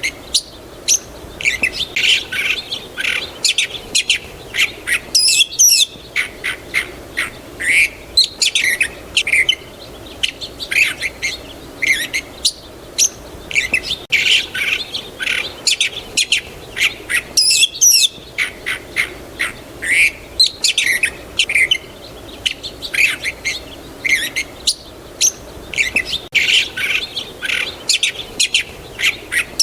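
Several birds chirping and singing without pause, with short sharp chirps and quick rising and falling whistled notes. The same stretch of birdsong repeats about every twelve seconds, as a loop.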